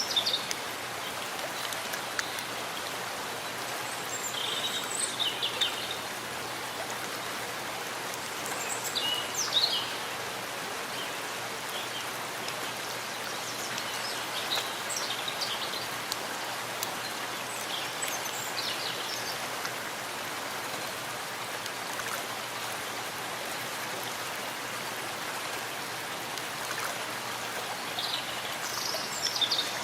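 Steady rain falling in a forest, an even hiss of drops on leaves, with birds giving short high chirps now and then, a handful of times.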